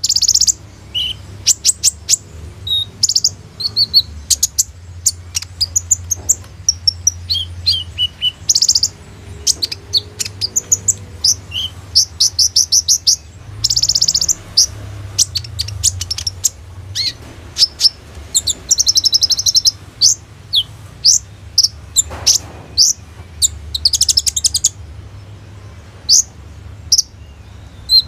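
A kolibri ninja sunbird singing: rapid high-pitched chirps, fast trills and quick repeated notes in bursts with short gaps. A steady low hum runs underneath.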